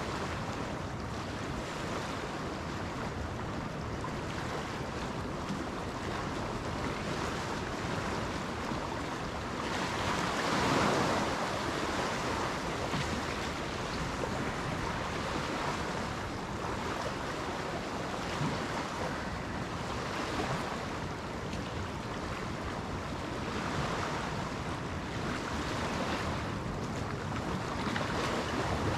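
Waves washing onto a shore in steady wind, swelling louder about ten seconds in, with wind buffeting the microphone.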